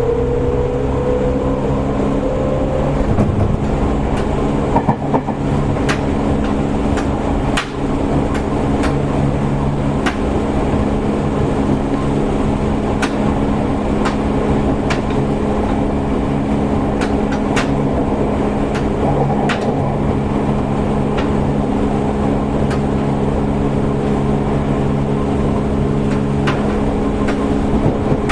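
Seibu 101-series electric train running, heard inside car Moha 223. The low-pitched traction motor note rises for the first few seconds as the train accelerates, then settles into a steady hum. Rail-joint clacks come every second or two.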